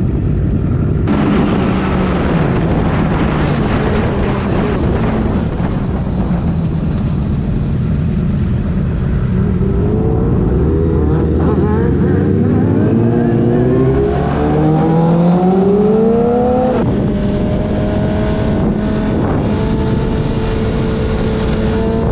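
Sport bike engine under way with wind rushing over the microphone. About halfway through the engine pulls up in pitch several times as it accelerates, then settles to a steady cruise.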